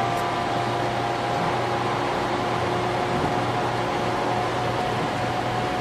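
Steady running noise inside the driver's cab of a 500 series Shinkansen: an even hiss over a low hum, with faint steady tones that fade early on.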